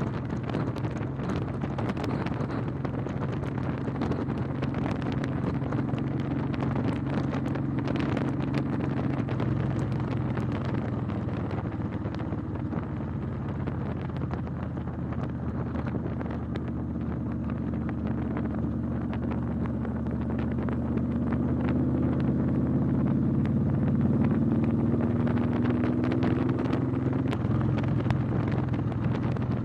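Motorcycle engine running under way, with wind buffeting the microphone. The engine note climbs gradually in the second half, then drops suddenly near the end.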